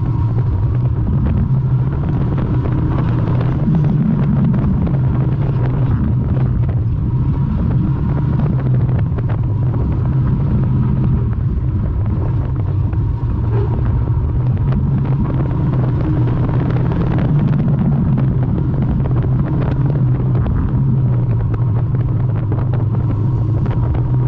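Morris 1100 banger racing car's engine running hard under load, heard from inside the cabin, swelling and easing steadily as the car laps, with bodywork rattling and knocking throughout.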